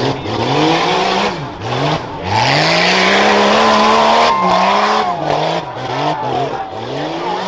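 Modified Jeep Cherokee rough truck's engine revving hard in repeated bursts, pitch climbing under throttle and dropping each time it lets off, with the longest pull in the middle. A rushing hiss rides over the longest pull.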